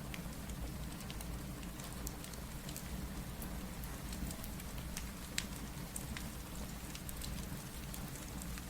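Steady rain with a low rumble underneath, mixed with the irregular sharp pops and crackles of a fireplace.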